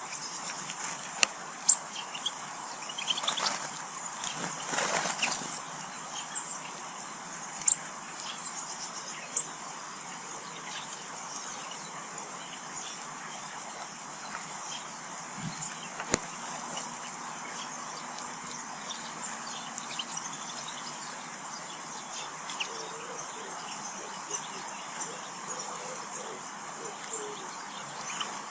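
Small garden birds at a feeder: short high chirps and tweets, a few sharp clicks (loudest about two and eight seconds in), and a brief rush of wing flutter about four seconds in.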